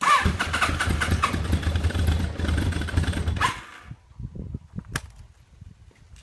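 Kawasaki ZRX1200R's electric starter cranking the inline-four for about three and a half seconds, with a short whine as it begins and again as it stops, then only faint scattered thumps and clicks. This is a cold start after seven weeks standing, done without pumping the FCR carburettors' accelerator pumps: the float bowls have run low and the vacuum fuel tap needs several cranks before fuel reaches them.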